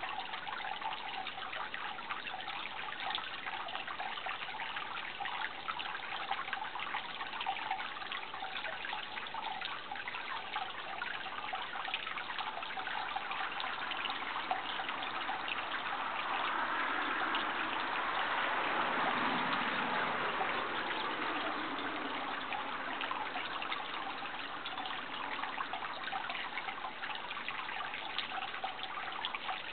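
Water trickling and gurgling steadily. A louder rushing sound swells and fades a little past the middle.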